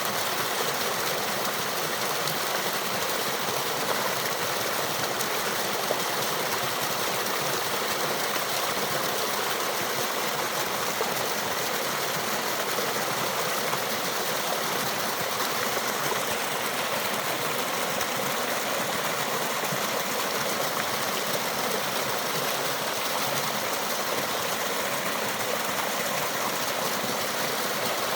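Small waterfall on a rill, rushing steadily: an even hiss of falling and flowing water.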